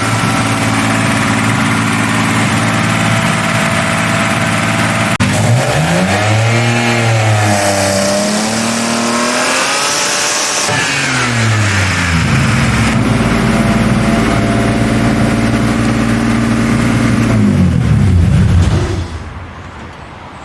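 BMW six-cylinder engine running, now firing on all six cylinders after new hydraulic lifters. It holds steady at first, is revved up and down twice, holds at a higher speed, then the revs fall away and the sound drops off near the end.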